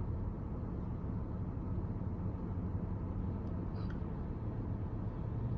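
Steady low engine rumble with an even hum.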